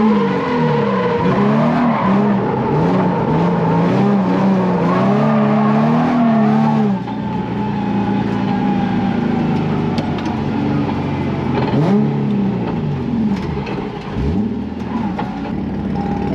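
Drift car engine revving hard, its pitch swinging up and down as the throttle is worked through a drift. After about seven seconds it drops quieter, with a couple of short rev swells near the end.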